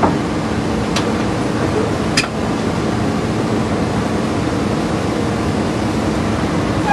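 Heavy excavator diesel engine running steadily, with two short sharp clicks about a second in and again a second later.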